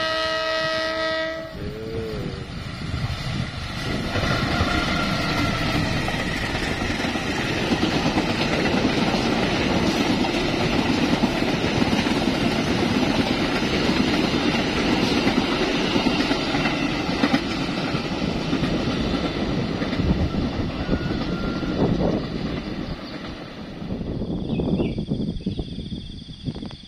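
Diesel-hauled passenger train sounding its horn, a chord of several steady tones, for about the first second and a half, then the train running past with the noise of its wheels on the rails for about twenty seconds, fading away near the end.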